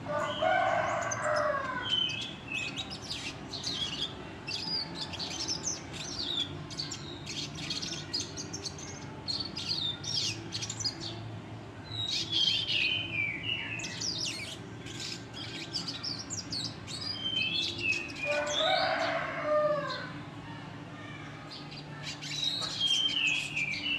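Red siskin singing a long, rough, rapid twittering song of high chattering notes and descending trills, with a lower falling phrase at the start and again about eighteen seconds in.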